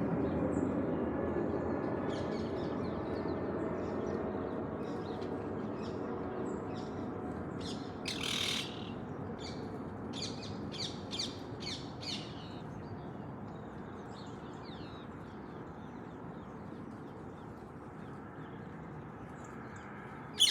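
Birds calling: scattered chirps and squawks, with one louder, harsher squawk about eight seconds in and a quick run of calls between about ten and twelve seconds. Underneath is a steady low background noise that slowly fades.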